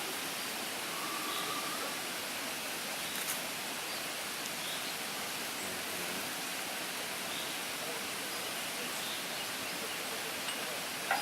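Steady, even outdoor background hiss, with a faint short whistle-like tone about a second in.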